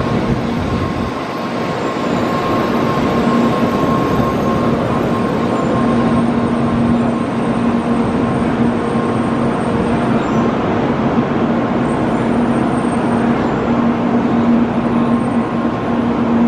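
N700-series Shinkansen train rolling slowly alongside the platform as it pulls in: a steady rumble with a low hum.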